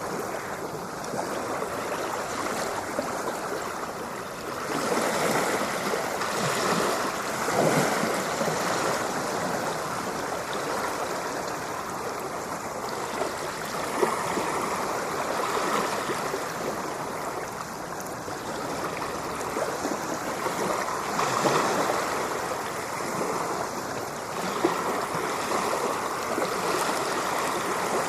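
Ocean surf washing continuously, with waves swelling louder every several seconds and falling back.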